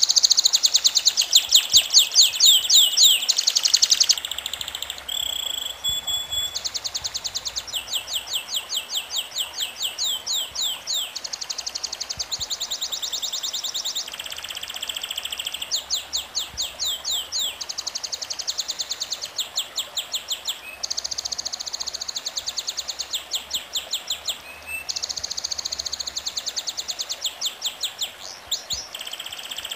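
Bird song: quick, high chirps, several a second, delivered in phrases a few seconds long with short pauses between.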